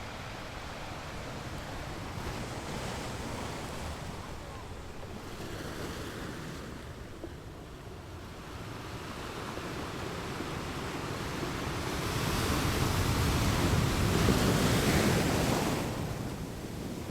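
Ocean waves breaking and washing on a beach, with some wind noise on the microphone. The surf swells up about two-thirds of the way through, is loudest for a few seconds, then drops away near the end.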